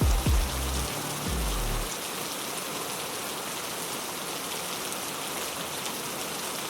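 Steady heavy rain, an even hiss of drops on a surface. During the first two seconds, deep bass notes sound under it, each starting with a quick downward sweep, and then they stop, leaving the rain alone.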